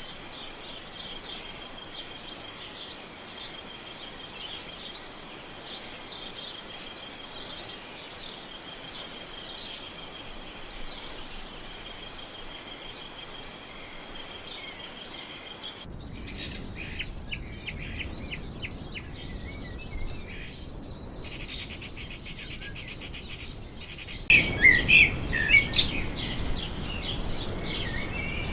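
Forest ambience of birds and insects. First comes a steady high insect-like chorus with evenly repeating shrill pulses. It cuts off suddenly to scattered bird chirps, and about 24 seconds in it switches again to louder, busier birdsong.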